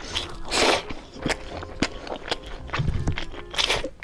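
Close-miked eating sounds of a man chewing rice taken by hand: wet mouth clicks and smacks, with two longer hissy sounds, about half a second in and again near the end.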